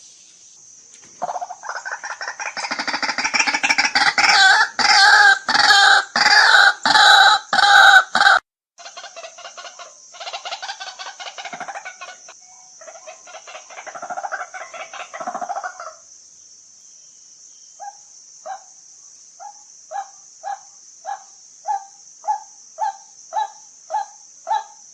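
White-breasted waterhen calling: a loud run of rapid, croaking repeated calls, then a softer run. From about two-thirds in come evenly spaced single notes, about one and a half a second, growing louder.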